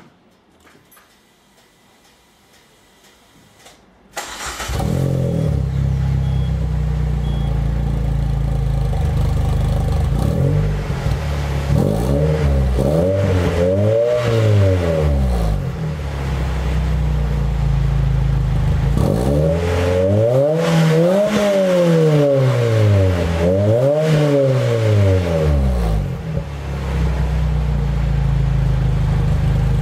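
Peugeot 206 RC's 2.0-litre four-cylinder engine through a Janspeed aftermarket exhaust, warm, starting up about four seconds in and settling to an idle. It is then blipped through quick rises and falls in revs twice, several blips each time, dropping back to idle in between.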